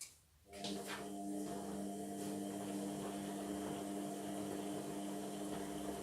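Indesit washing machine mid-cycle: about half a second in, a steady electrical hum starts suddenly and holds, as a pump or motor inside the machine switches on.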